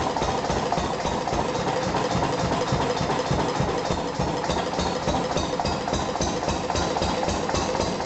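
Small single-cylinder Lister 3hp stationary diesel engine running steadily, with an even, regular exhaust beat.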